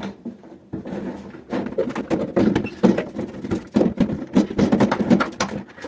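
Rapid clattering and knocking of microwave parts being handled and worked at to get a piece loose. It starts about a second in and grows into dense, irregular knocks.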